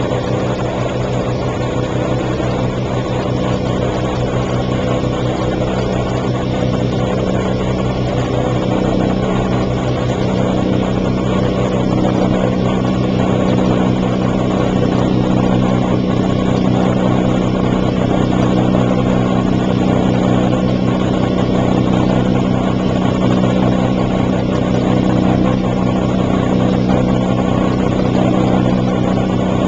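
1957 James portable dishwasher running: a steady electric motor hum under a constant rush of churning, spraying water. It grows a little louder about ten seconds in.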